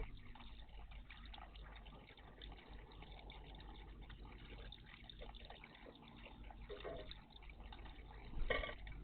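Faint water splashing and dripping in a garden bird bath, with small irregular ticks and one louder splash near the end.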